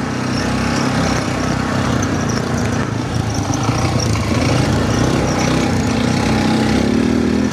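ATV (quad bike) engine running steadily while riding, its pitch shifting up and down with the throttle.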